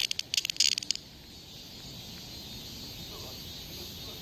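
A captured cicada buzzing in a few short, loud, broken bursts, falling silent about a second in; afterwards only faint outdoor insect noise.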